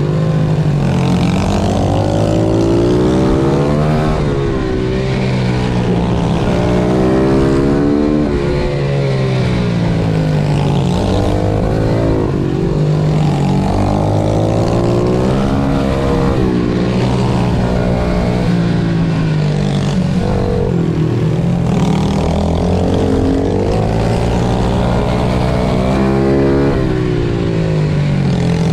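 Pit bike engine racing, its pitch climbing and dropping every couple of seconds as the rider accelerates out of corners, shifts and backs off into the next.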